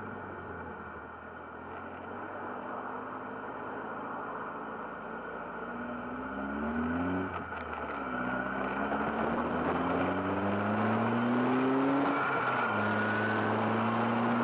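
GBS Zero open-top kit car's engine pulling hard, rising in pitch and growing louder, with a drop at each of two gear changes, about seven seconds in and about twelve and a half seconds in. A steady rush of wind and road noise sits under it from the open cockpit.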